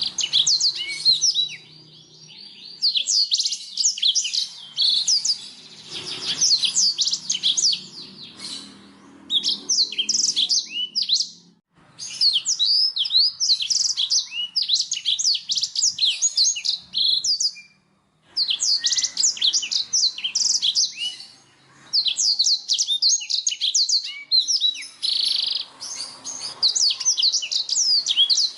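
Black-throated canary (blackthroat) singing: long, fast, twittering phrases of high chirps and trills, broken by short pauses.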